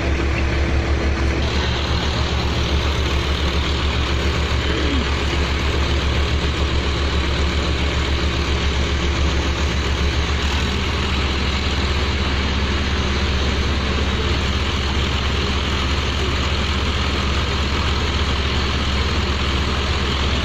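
Engine of a pneumatic drilling rig running steadily with a fast, even low throb. Its tone shifts slightly about ten seconds in.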